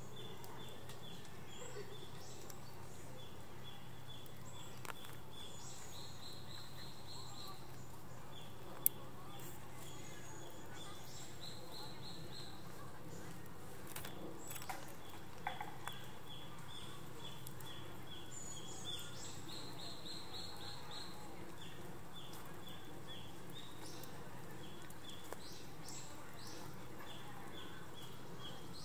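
Birds calling repeatedly in short, quick series of high notes, one pitch and then a slightly higher one, recurring over a steady low background hum. A single sharp click about nine seconds in.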